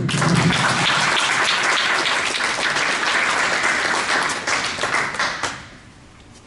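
Audience applauding, a dense steady clapping that starts at once and dies away about five and a half seconds in.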